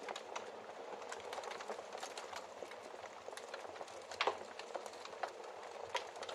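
Wood fire burning in a fireplace, with a steady soft hiss and frequent irregular crackles and pops. One sharper, louder pop comes past the middle.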